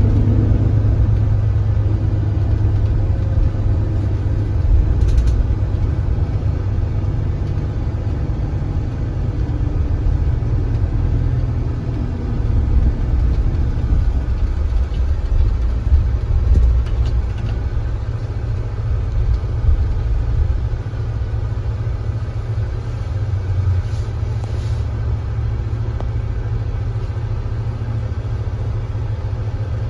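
Kia Granbird Sunshine coach's engine running with a steady low rumble, heard on board the bus, with a few faint clicks.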